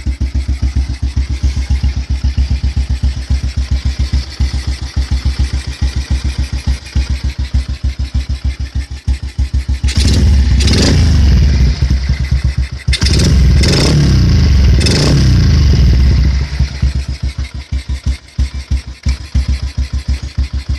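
Yamaha Byson's single-cylinder four-stroke engine running through an aftermarket DBS exhaust, idling with an even pulsing beat. About halfway in it is revved in a string of quick throttle blips for about six seconds, then drops back to idle.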